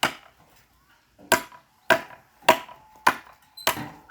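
Six sharp blows of a metal tool striking wood. After the first there is a pause of over a second, then the blows come evenly about every 0.6 s, each leaving a brief metallic ring.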